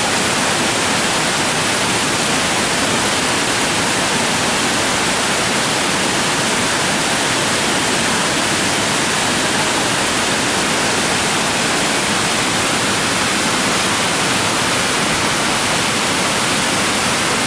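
Waterfall: falling water making a steady, loud, even rush with no let-up.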